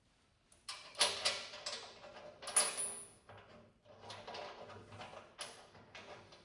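Metal parts and hardware clanking and clinking while being handled, with several sharp knocks, a few leaving a brief high ring.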